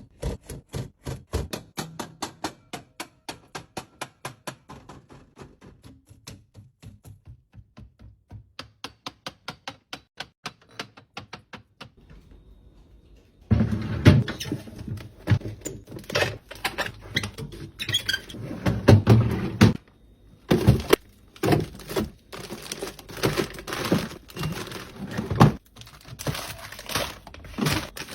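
A steady run of clicks, about three a second, for roughly twelve seconds. Then louder plastic packaging crinkling and rustling, with knocks, as groceries are handled.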